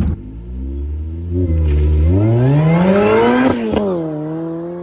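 Supercharged Saab 2.2-litre four-cylinder engine in an engine-swapped Vauxhall VX220, running low and steady, then revving up for about a second and a half. The revs then drop quickly and settle at a steady pitch.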